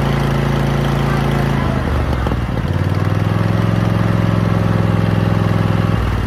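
Lawnmower engine running steadily. It changes speed about two seconds in, runs steady again, and stops near the end.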